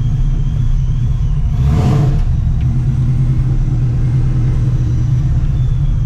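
Vortech-supercharged 4.6-litre 2V Mustang GT V8 running through freshly fitted open exhaust dumps off the X-pipe: a loud, deep, steady rumble with one short throttle blip about two seconds in.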